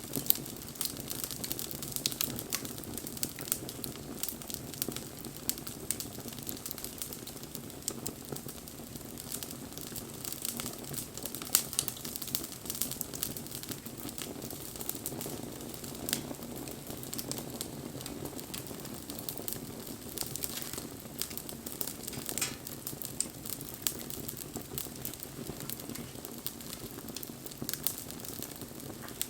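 Wood bonfire crackling: a dense run of small snaps and pops over a steady low rush of burning, with a couple of louder pops, one just at the start and one about eleven seconds in.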